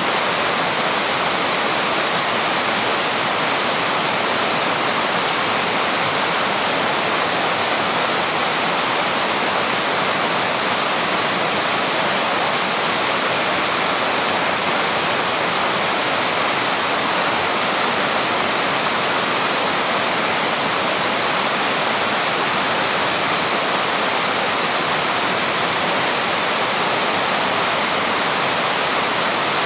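Small waterfall pouring over rocks: a steady, loud rush of falling water with no change.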